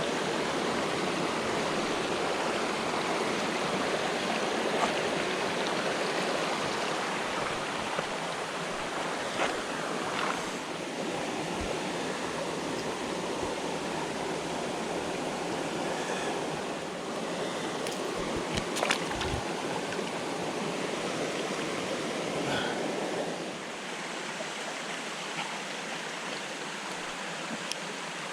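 Freshwater jungle creek running steadily, a little quieter in the last few seconds, with a few faint knocks.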